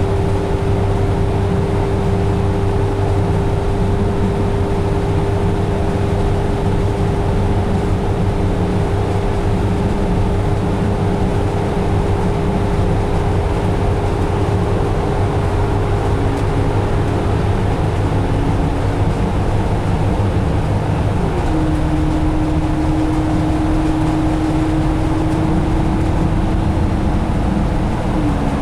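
Cabin noise inside a 2017 Alexander Dennis Enviro500 double-decker bus at road speed: the Cummins ISL 330 diesel and Allison B500R transmission give a steady low drone with a whine, and the whine steps down in pitch about two-thirds of the way through and again near the end.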